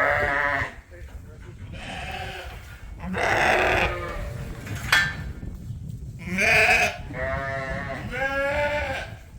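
Ewes bleating in a pen: about six separate, wavering calls from several sheep, with one sharp click about five seconds in.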